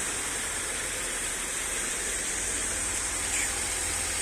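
1962 Lincoln Continental's 430 cubic-inch V8 idling, a low steady rumble under a steady hiss.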